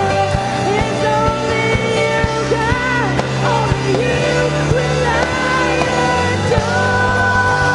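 Live worship band playing with singing: drums, bass and sustained chords under a sung melody.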